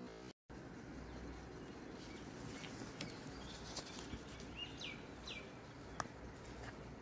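Outdoor background noise with a few short bird chirps, each falling in pitch, from the middle of the clip, and two sharp clicks, the louder one near the end.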